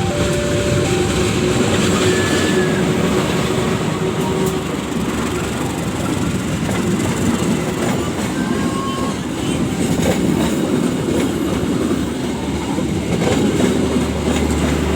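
A train running past at close range: a continuous heavy rumble of wheels on the rails, with clatter from the wheels over the track.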